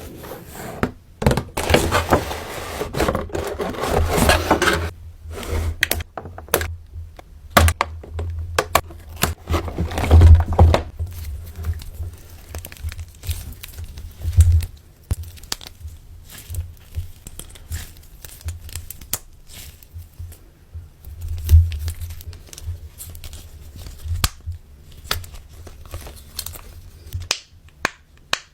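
Close-up handling of a fidget-toy doll and its plastic packaging: crinkling and scraping in two longer stretches, with many sharp taps, clicks and knocks in between.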